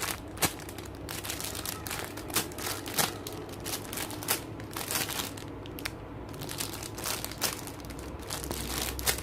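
Irregular crinkling and crackling of plastic as squishy toys are handled and sorted.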